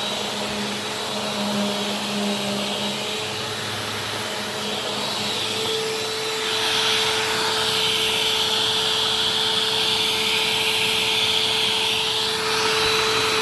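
Bissell PowerForce Compact Turbo upright vacuum cleaner (model 2160) running, with a steady motor whine under a rushing air hiss. The hiss grows louder about halfway through.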